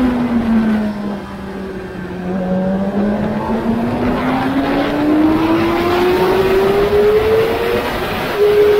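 Yamaha YZF-R6's inline-four engine heard onboard: the revs fall as the bike slows into a corner, then climb steadily as it accelerates out, with an upshift near the end. Wind rush throughout.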